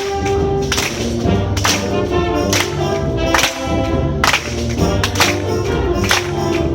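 Wind band playing a Latin-style concert piece: sustained brass and woodwind chords over a steady low line, with sharp percussion accents about once a second.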